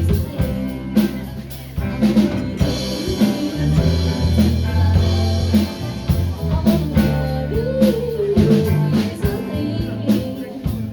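Live band playing an instrumental passage: drum kit keeping a steady beat under a bass line, with guitar on top.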